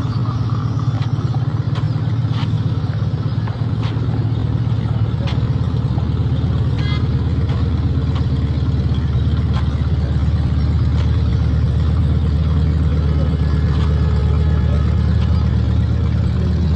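Motor vehicle engines running: a steady, loud low rumble of road traffic, with a few faint clicks.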